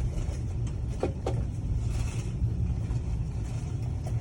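Train running, heard from inside the carriage: a steady low rumble, with two short knocks about a second in.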